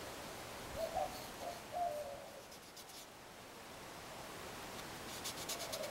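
Quiet outdoor background with a bird giving low, wavering cooing calls twice, about a second in and again near the end. Faint runs of fast ticking come in at the middle and near the end.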